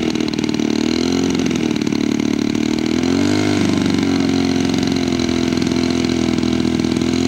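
Radio-controlled scale model aircraft engine running in flight, its pitch rising and falling several times as the plane passes and the throttle changes.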